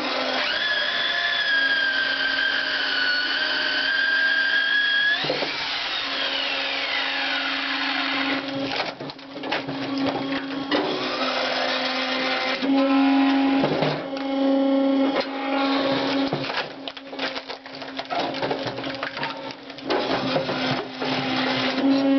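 Wood-processing machine running with a steady hum while wood cracks and crunches through it. A high whine over the first five seconds glides down and fades, and irregular snapping and crackling continue.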